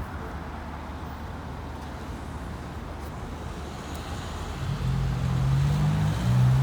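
Steady road traffic rumble, then about four and a half seconds in a heavy road vehicle's engine comes in close and louder, its note stepping in pitch as it passes or pulls away.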